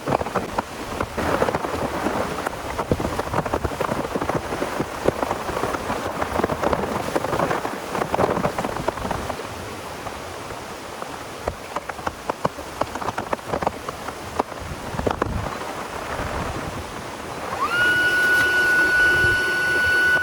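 Heavy rain falling, with many sharp close drop hits on a surface. Near the end a steady high whine rises in and holds.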